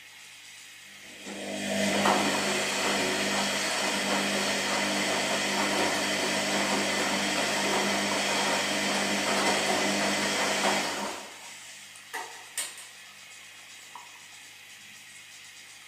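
Washing machine running: a low steady hum, then a loud rushing noise starts about a second in, holds steady for about ten seconds and drops back to the hum, followed by a few short clicks.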